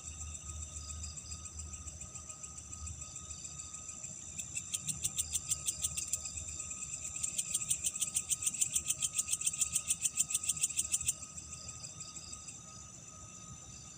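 Night insects, crickets, trilling steadily on several high pitches. A loud, rapid pulsed chirping of about six pulses a second comes in twice and stops abruptly near the end, over a faint low rumble in the first half.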